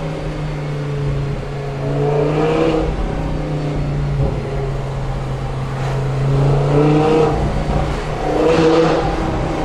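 Audi R8 V10 engine with an aftermarket Per4mance exhaust, running at a steady low note and revved up in short blips three times.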